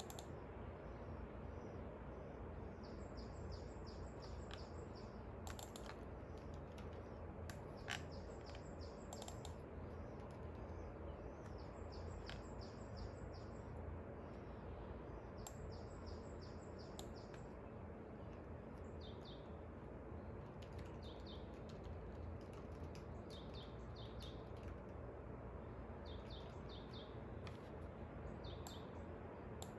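Small birds chirping in repeated quick series of high notes, bout after bout, over a steady low background rumble. A few sharp clicks cut in, the sharpest about eight seconds in.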